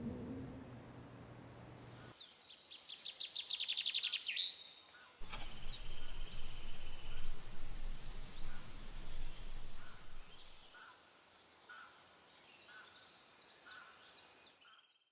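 Small songbirds chirping and giving quick trills over a faint, steady forest hiss, in two spells of calls; the sound fades out just before the end.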